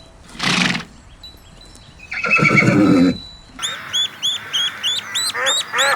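A horse gives a short snort and then whinnies for about a second. About three and a half seconds in, the sound changes to chicks cheeping rapidly in high-pitched chirps, several a second.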